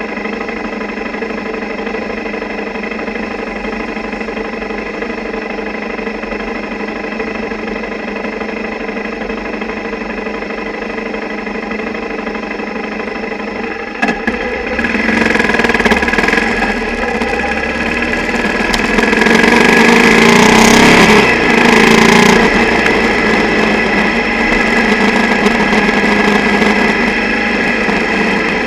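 Single-cylinder motorcycle engine recorded through the underwater camera housing bolted to the bike, so it is heard mostly as vibration carried through the mount, with the housing rattling from the single's shaking. It idles steadily at first, then after a click about halfway through it revs up and runs harder, loudest a few seconds later, and settles into steady running.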